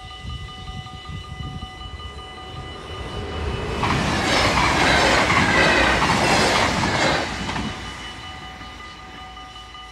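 Level crossing warning bells ringing steadily while a passenger train passes: its rush of wheel and rail noise builds from about three and a half seconds in, is loudest through the middle and fades after about seven and a half seconds, covering the bells while it passes.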